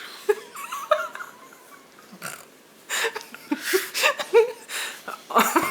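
Short laughs and small vocal noises over the soft rustle of a folded bath towel being pulled apart.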